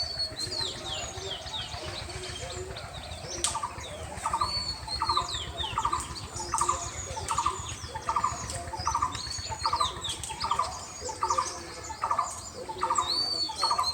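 Many small birds chirping and twittering. From about three seconds in, a short rasping sound repeats evenly, a little faster than once a second.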